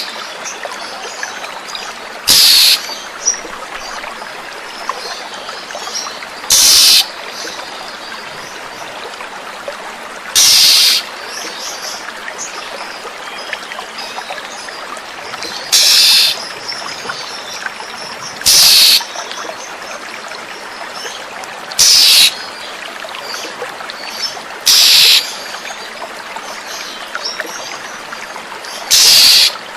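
Oriental magpie-robin (kacer) giving a short loud call eight times, about every three to four seconds, over a steady sound of flowing water.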